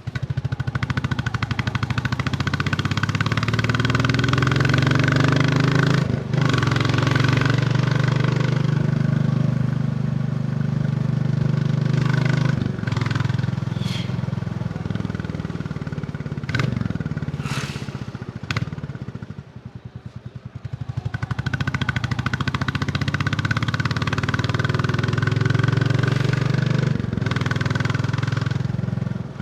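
Royal Enfield Bullet 350's single-cylinder engine and exhaust under way. It pulls up in pitch with brief breaks in the note, drops back as the throttle eases about twenty seconds in, then builds again.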